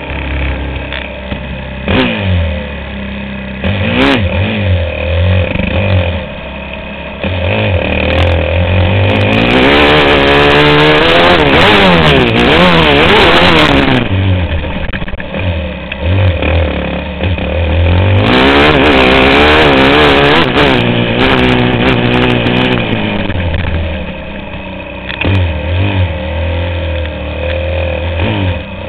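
Motocross motorcycle engine revving hard, its pitch rising and falling again and again, with two long loud stretches of high revs.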